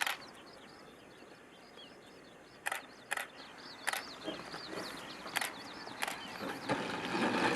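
Small birds chirping, with several sharp clicks or knocks scattered through. A broad rushing noise swells up near the end.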